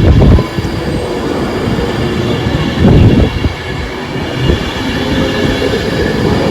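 Class 390 Pendolino electric passenger train running past on the rails, a steady rumble of wheels and bogies that slowly grows louder. There are short low thumps at the start and about three seconds in.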